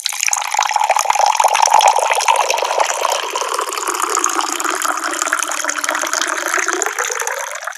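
Water pouring from a tap in a steady, splashing stream that starts abruptly and cuts off abruptly.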